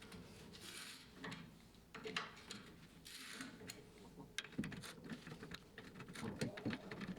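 Faint scattered clicks and light metallic knocks of hand tools and parts being handled, with two short hissing bursts, one about a second in and one about three seconds in.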